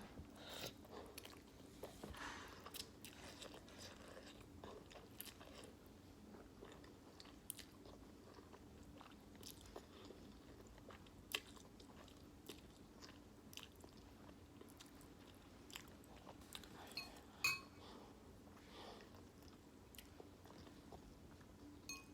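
Close-up mouth sounds of someone eating beef ramen noodles: soft chewing with small wet clicks and smacks scattered throughout, one sharper click near the end. A faint steady hum runs underneath.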